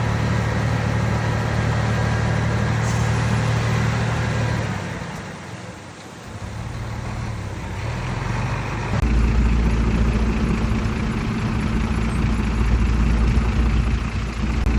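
Heavy diesel engine of earthmoving machinery running steadily, dropping away to a lull around six seconds in, then a deeper, louder engine note from about nine seconds.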